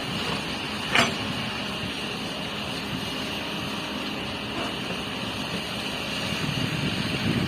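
Heavy construction machinery running steadily, with one sharp clank about a second in.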